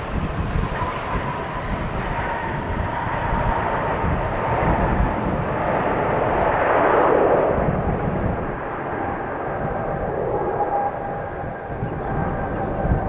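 Jet airliner passing, its engine roar swelling to a peak about halfway and then easing, with a whine that slides slightly lower in pitch as it goes by.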